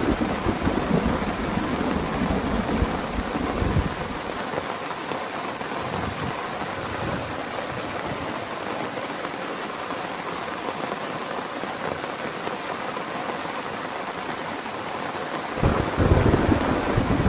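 Heavy rain falling in a steady hiss. A low rumble of thunder fills the first four seconds, stops abruptly, and returns loudly near the end.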